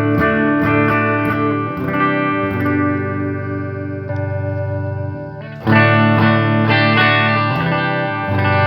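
Electric guitar played through a guitar amplifier: chords ring out, and a new chord is struck a little past halfway.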